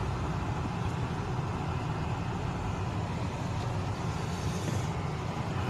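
Steady road noise and engine hum of a car driving along, heard from inside the cabin.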